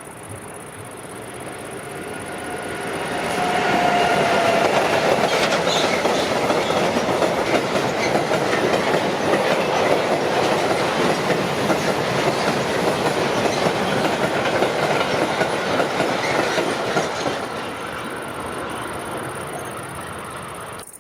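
Train passing on the line: it approaches, runs loud with wheels clattering over the track, then fades away. A brief wheel squeal comes about four seconds in.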